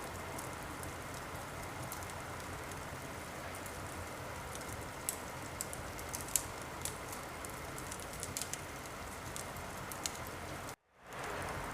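Wood fire burning in a fireplace: a steady hiss with scattered sharp crackles and pops. The sound cuts out for a moment near the end, then picks up again.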